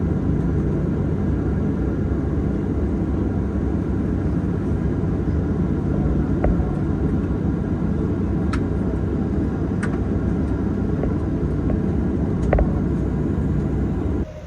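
Steady low rumble of a Boeing 737-900 cabin as the jet taxis in after landing, with a few faint clicks and knocks here and there; it cuts off abruptly near the end.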